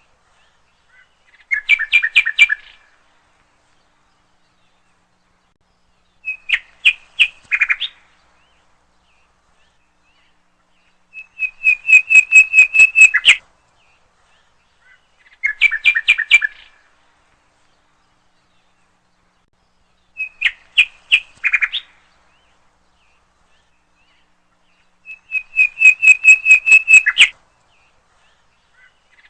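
A bird calling in short phrases of rapid, repeated notes, six phrases with silent pauses of a few seconds between them.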